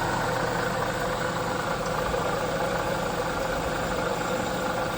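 2009 Chevy Silverado engine idling steadily, picked up through a metal drywall-mixer shaft pressed against the water pump as a makeshift stethoscope. The owner takes the noise for a failing water pump bearing.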